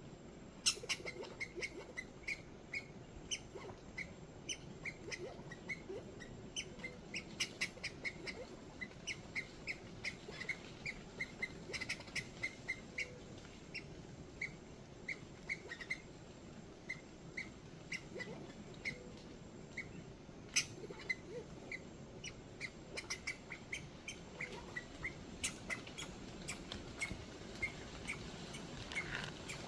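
Small animal chirping: a long run of short, high chirps, two or three a second, with occasional sharp clicks.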